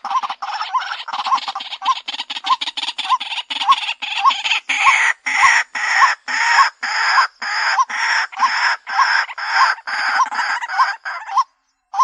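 White-breasted waterhen calling: a steady run of short, harsh notes, about three a second. The calling breaks off briefly about half a second before the end, then starts again.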